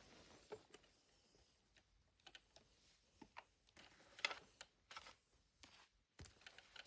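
Faint, irregular light clicks and taps, a dozen or so scattered through a quiet room.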